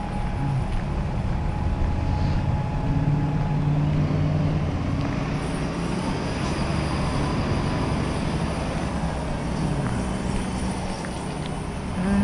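Steady rumble of a transit vehicle in motion, heard from inside, with low motor hum whose pitch shifts.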